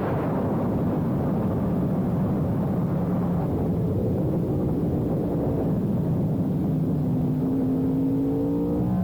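Sportbike engine running steadily under way. Its pitch rises smoothly over the last couple of seconds as it accelerates.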